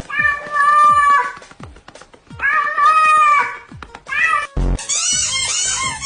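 A domestic cat meowing three times: two long drawn-out meows and a short one. A brief low thump follows, then music starts near the end.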